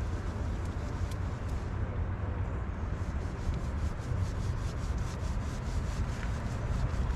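Hands scrubbing and rubbing a dog's soapy, wet fur, a steady rustling rub with fine crackles, over a constant low rumble.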